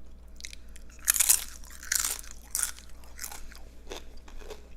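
Close-miked crunching of tortilla chips being bitten and chewed, a series of about five crisp crunches, the loudest about a second in.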